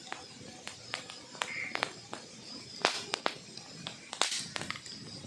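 Wood fire crackling: irregular sharp pops and snaps over a soft hiss, with louder pops a little under three seconds in and just after four seconds.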